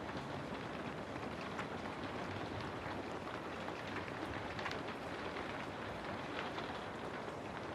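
Steady rainfall, with many small drops pattering and ticking on surfaces.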